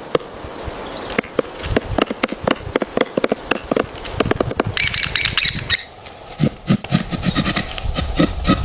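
A woodpecker's sharp calls and chattering, mixed with many irregular short clicks and taps. A brief higher-pitched call comes about five seconds in, and after that a quicker run of clicks.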